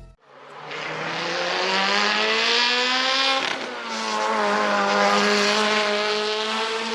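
Sports-car engine revving: its pitch climbs for about three seconds, drops briefly, then climbs again and holds before fading out.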